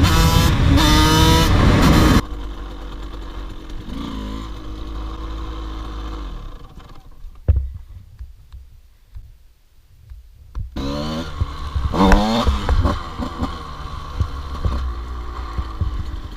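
KTM 85 two-stroke dirt bike engine revving hard, with its pitch climbing again and again. It cuts off suddenly about two seconds in. A quieter stretch follows with a single knock partway through, and the engine is heard revving up again from about eleven seconds.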